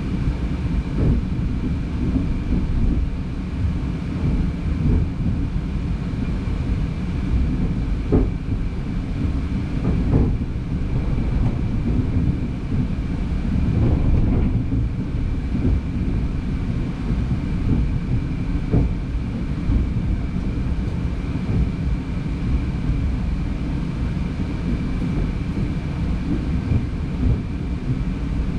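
Passenger train running, heard from inside the carriage: a steady low rumble of wheels on the rails with a thin steady high whine over it, and a few separate knocks from the wheels on the track.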